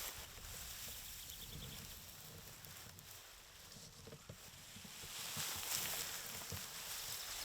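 Outdoor ambience of wind blowing through vegetation and across the microphone, with low rumbles and soft rustles. The wind rises about five seconds in, and a brief faint high twitter comes about a second in.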